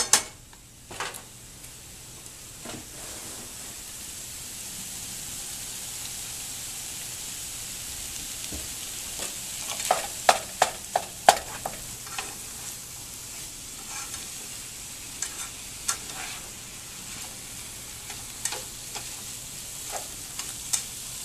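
Ground beef browning with chopped onion, green bell pepper and jalapeño in a frying pan, sizzling steadily. A plastic slotted spatula knocks and scrapes against the pan as it breaks up and stirs the meat, with a quick run of knocks about ten seconds in.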